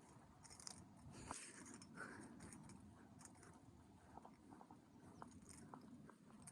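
Near silence: a faint low rumble with scattered soft clicks and crackles.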